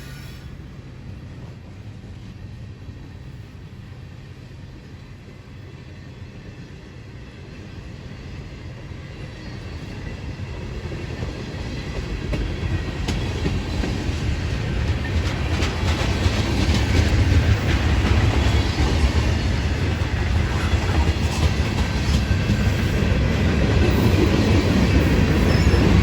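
CN diesel-hauled train approaching and passing, its sound building steadily to a loud low rumble with rapid clicking of wheels over rail joints.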